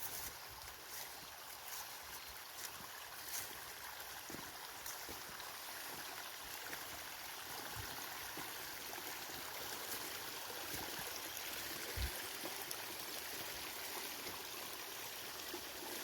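Small jungle stream running steadily across a dirt path, a continuous rushing trickle of water. A light knock about twelve seconds in.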